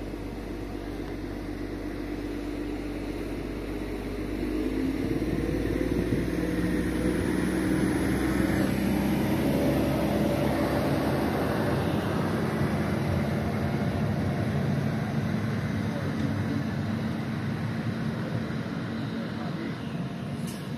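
Diesel passenger train pulling out of the station. Its engine note grows louder about four seconds in, holds, then eases off slowly as the train moves away.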